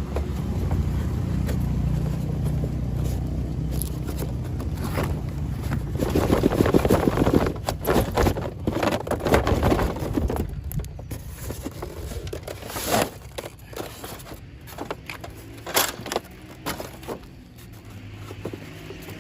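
Toy electric model train running, a steady low motor hum mixed with clicking and scraping; a louder clattering stretch comes about halfway through, then the hum fades and scattered sharp clicks remain.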